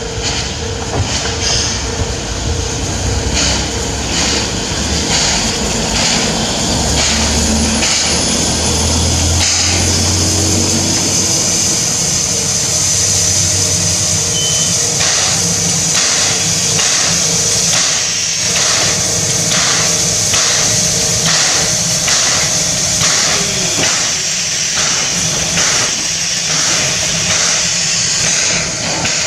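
Steam locomotive working, its exhaust chuffing in a steady, even beat over a continuous hiss of steam.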